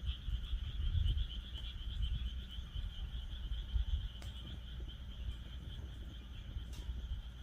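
A steady chorus of frogs, a dense high trill, with a few sharp pops from a wood fire crackling in a fire pit stand, over a low rumble.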